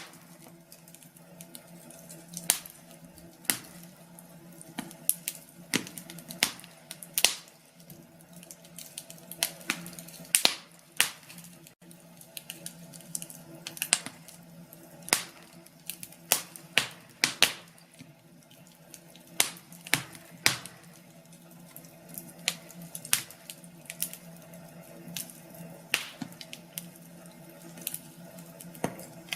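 Wood fire in a fireplace crackling, with sharp irregular pops and snaps over a soft steady hiss and a low steady hum.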